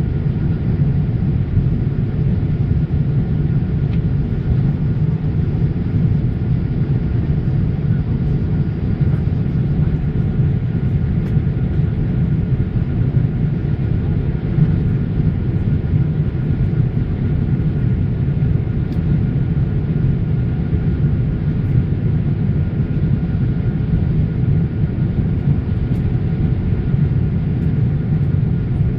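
Boeing 787 Dreamliner jetliner running under power: a steady, even rumble with a faint steady high tone above it.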